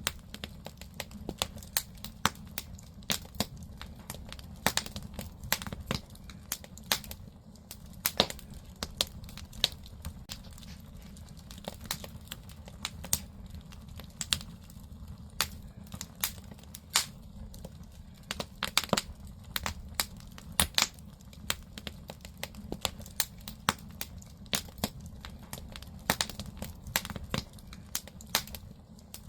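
Firewood burning in a traditional Korean agungi firebox, crackling with irregular sharp pops over a low, steady rumble.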